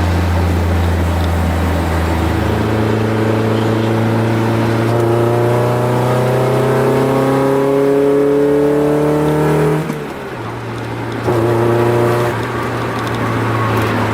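Honda F22B1 2.2-litre VTEC four-cylinder engine of an Accord Maestro, heard from inside the car, pulling under acceleration with its note rising steadily for several seconds. About two-thirds of the way through, the revs fall away sharply and the sound dips briefly, as at a gear change. The engine then pulls again at a lower pitch.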